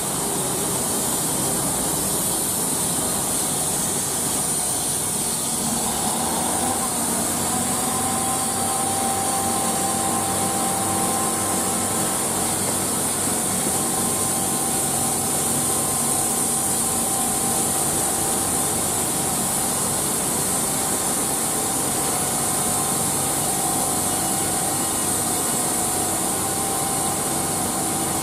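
A train running at the station over the steady hiss of rain. The noise holds at an even level, and a hum of several steady tones sets in about six seconds in.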